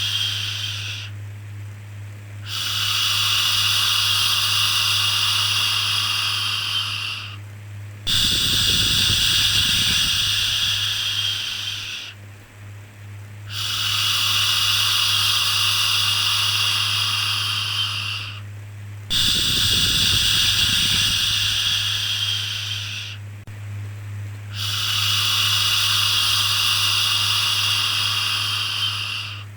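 Repeated 'shhh' shushing for soothing a baby: long hissing shushes of about four to five seconds each, about five in a row with brief breaks between them, over a steady low hum.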